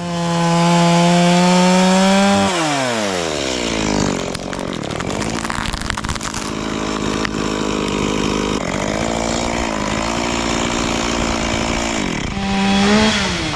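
Stihl chainsaw cutting a branch. It runs at high revs, its pitch falls sharply about two and a half seconds in, and it then runs steadily at a lower pitch through the cut. It revs up briefly near the end and drops again.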